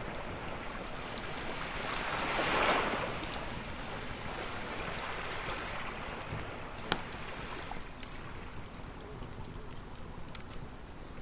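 Ocean waves washing onto a beach, one swelling and breaking about two to three seconds in, with a campfire crackling and giving scattered sharp pops, the loudest past the middle.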